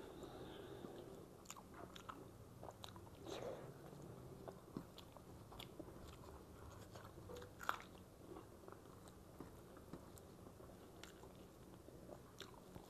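A person chewing and eating by hand close to the microphone: faint wet mouth clicks and smacks, with one sharper click a little past halfway.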